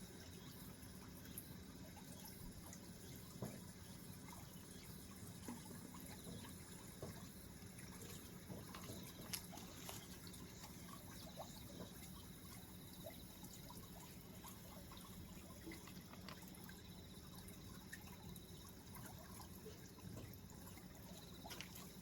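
Faint water trickling and dripping, with scattered small clicks over a low steady hum.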